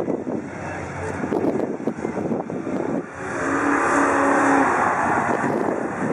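Two cars racing side by side down a track straight, their engines running hard and growing suddenly louder about three seconds in, with a held engine note for about a second. Wind buffets the microphone beforehand.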